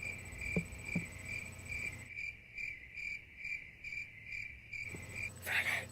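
Cricket chirping sound effect, an even chirp about three times a second that cuts off abruptly near the end: the comic 'crickets' that marks an unanswered question.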